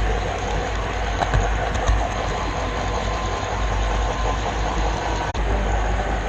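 Model railroad camera car rolling along the track, its wheels giving a steady rumble with a few faint clicks, picked up by the GoPro riding on the car.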